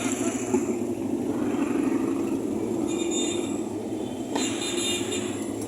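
Motorcycles riding past in a street procession, their engines making a steady, rough drone, with a single sharp pop about four seconds in.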